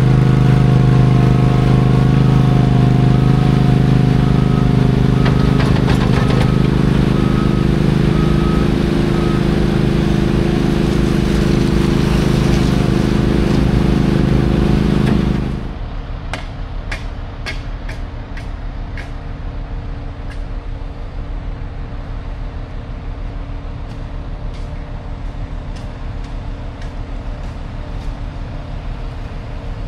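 A heavy diesel truck engine running steadily, with a beeping alarm, evenly pulsed, that stops about a third of the way in. About halfway through the engine sound cuts off abruptly and gives way to a quieter steady hum with a quick run of sharp clicks.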